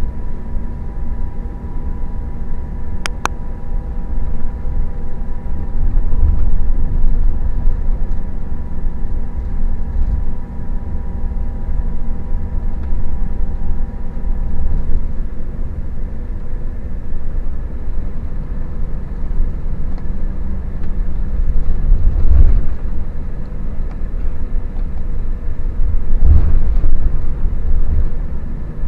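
Scania K400IB coach on the move: a steady low engine and road rumble, with a faint steady whine that stops about halfway through. A sharp click comes a few seconds in, and two heavier thumps come near the end.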